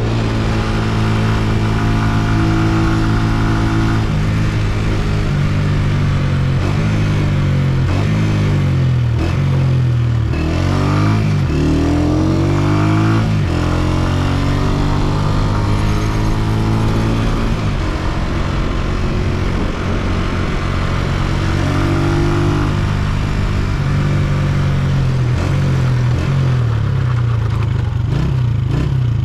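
Honda CG125's air-cooled single-cylinder four-stroke engine running under way, heard from the rider's seat. Its pitch holds, then falls and climbs again with throttle and gear changes, most plainly about ten to thirteen seconds in, before settling to a steady run.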